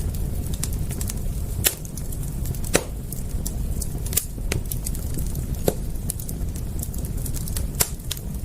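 Wood fire crackling: irregular sharp pops and snaps over a steady low rumble, with about five louder pops spread through.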